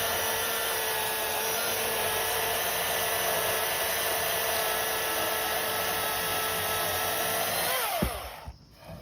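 Milwaukee Fuel 16-inch battery chainsaw running with a steady electric-motor whine. About eight seconds in the trigger is released, and the whine falls away as the chain coasts to a stop.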